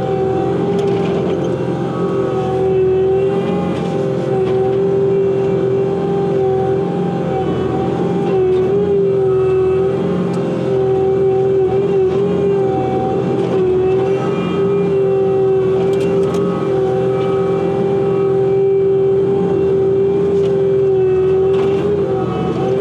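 Bobcat T86 compact track loader running under work, its diesel engine and hydraulics giving a steady high whine that wavers slightly in pitch, heard from inside the cab, with a few light knocks.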